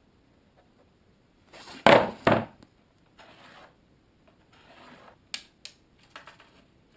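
Wooden boards being handled on a work surface: two sharp knocks of wood against wood close together, then a couple of short stretches of rubbing or scraping and a few light clicks.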